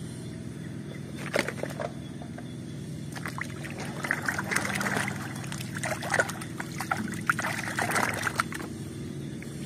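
A hand swishing and splashing in a plastic basin of muddy water, washing a muddy toy clean, with irregular splashes and trickles.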